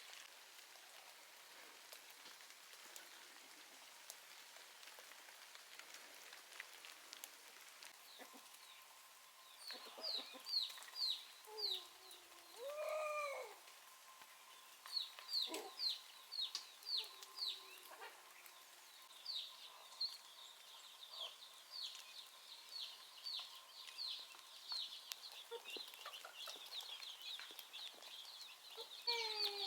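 Chickens calling in a farmyard: after a quiet start, a long run of short, high, falling peeps begins about ten seconds in and keeps going, with a few lower hen clucks among them.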